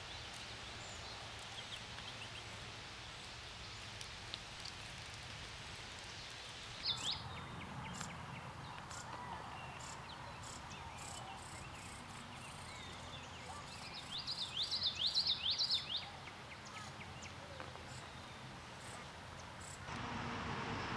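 Outdoor background ambience with bird chirps: a single high, downward chirp about seven seconds in, then a quick run of high chirps around fifteen seconds in. The background changes abruptly to a louder hiss near the end.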